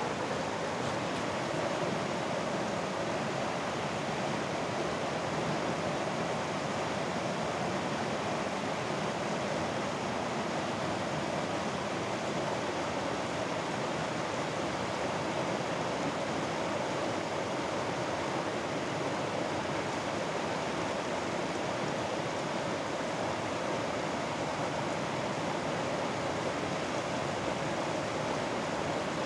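Mountain valley stream rushing steadily over rocks, an even, unbroken water noise.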